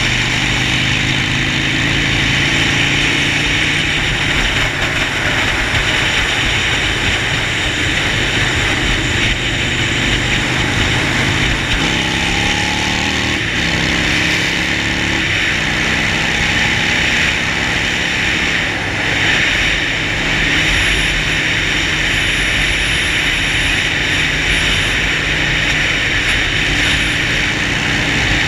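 Harley-Davidson Sportster 48's air-cooled V-twin running under way, with a steady rush of wind noise over it. Around the middle the engine note climbs in steps and shifts, as the bike pulls through a gear change.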